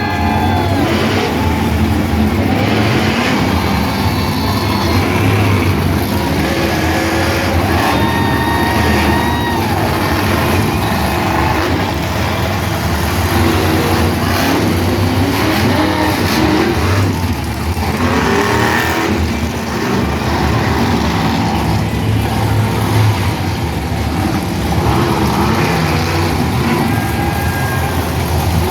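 Monster truck engines running loud and revving, with their pitch rising and falling at times.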